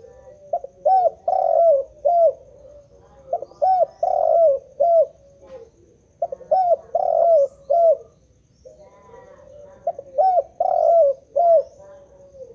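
Spotted dove (tekukur) cooing: its song phrase of several short coos is repeated four times, roughly every three seconds.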